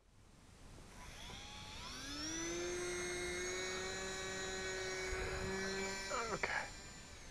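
Micro RC Cessna's small electric motor and propeller whining up to speed over about a second, holding a steady high whine, then cutting away near the end.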